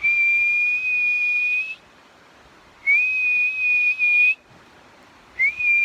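A person whistling to call a dog: two long, steady, high-pitched whistles of about a second and a half each, then a third that starts with an upward slide near the end.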